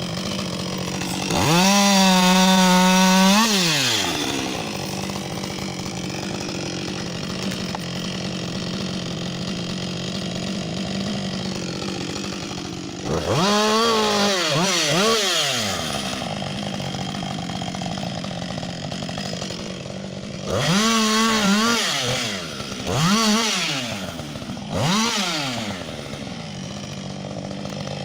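Two-stroke chainsaw idling between revs: one full-throttle rev held for about two seconds near the start, then five shorter revs later, mostly in quick pairs.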